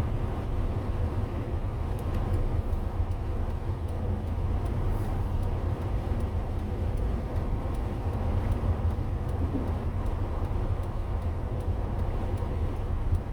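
A motorhome on the move: steady low engine and road rumble.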